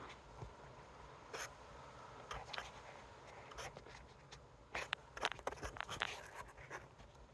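Handling noise: scattered light clicks, taps and rustling of small hard objects being moved by hand, with a quick cluster of clicks about five to six seconds in.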